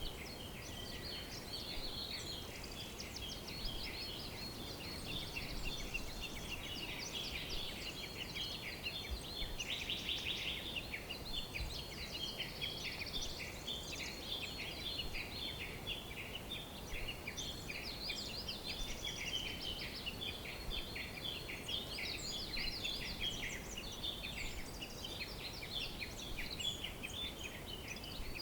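Many songbirds chirping and trilling together in a dense, continuous chorus of quick high notes, over a faint background hiss.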